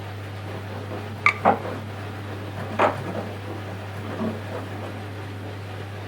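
Front-loading washing machine running a wash cycle with a steady low hum, and a few sharp knocks from the turning drum: two about a second in, one near three seconds, and a fainter pair later.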